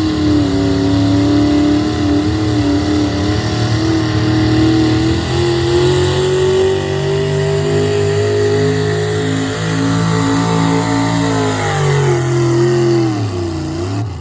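A pulling vehicle's engine running flat out under load on a pull, its pitch climbing slowly, then wavering and stepping, and falling steeply near the end as the throttle comes off.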